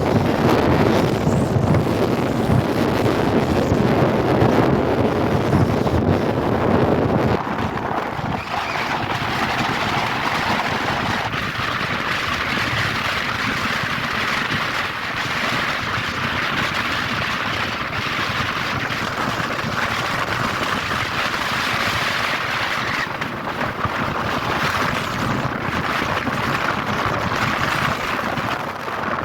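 Steady wind noise buffeting the microphone. About seven seconds in, its heavy low rumble drops away, leaving a thinner, higher hiss.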